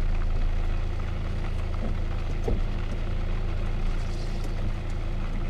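Steady drone of a car's engine and road noise heard from inside the cabin while driving in the rain, with an even hiss over it and a single light knock about two and a half seconds in.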